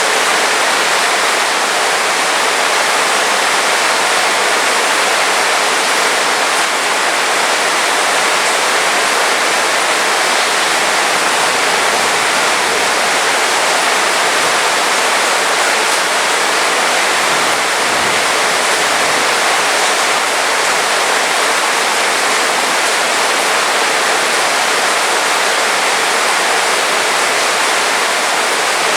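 Heavy rain falling steadily, a loud, dense, even hiss with no breaks.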